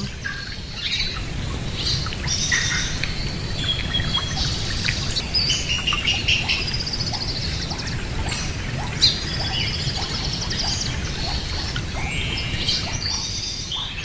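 Pet birds chirping and trilling: many short calls and rapid twittering runs, one after another, over a steady low background noise.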